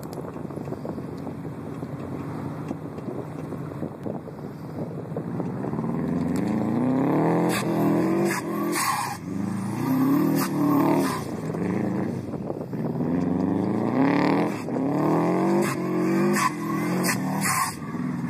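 Turbocharged Subaru Legacy flat-four engine revving hard in repeated rising surges as the car spins on sand. Its Turbosmart 50/50 blow-off valve vents with a short hiss each time the throttle lifts, about six times in the second half.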